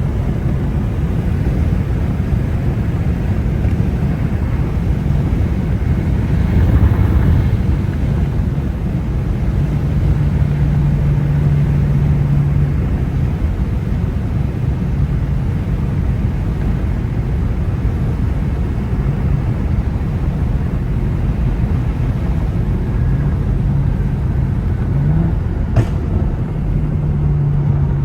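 BMW 335i E92's straight-piped N55 turbocharged inline-six running under way: a steady low rumble with a droning tone that holds for a few seconds at a time, and a short rise in pitch near the end.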